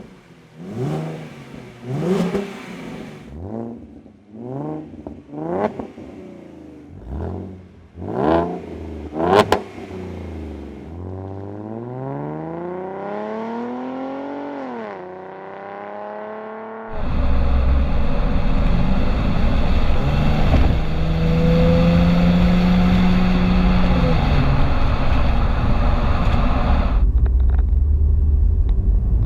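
Ford Mustang 3.7-litre V6 through a Roush axle-back exhaust, sharp and raspy, revved in a string of quick blips and then once more slowly up and back down. About seventeen seconds in it cuts to a louder, steady run with a deep rumble.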